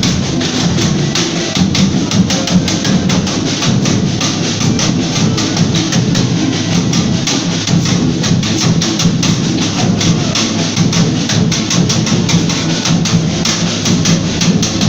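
Folia group's music, led by a drum beating a fast, steady rhythm over lower sustained instrument tones.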